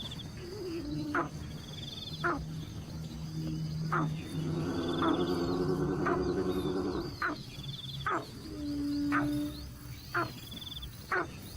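Wild animal calls, with sharp call notes about once a second and short high trills. A longer, lower pitched call comes in the middle.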